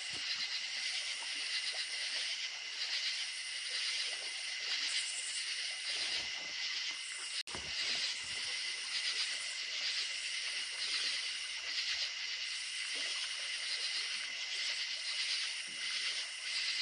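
Night chorus of crickets chirping steadily in many overlapping high trills, with creek water running faintly underneath. About halfway through there is a single sharp click and a momentary dropout.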